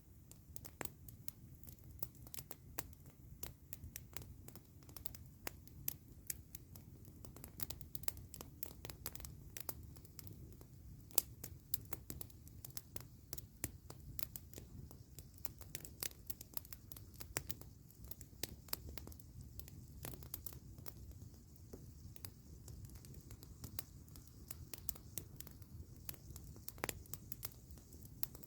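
Campfire crackling: irregular sharp pops and snaps, many every second, over a low steady rumble.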